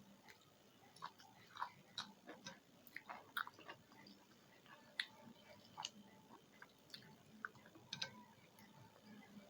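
Quiet eating sounds: irregular soft clicks and smacks of someone chewing food.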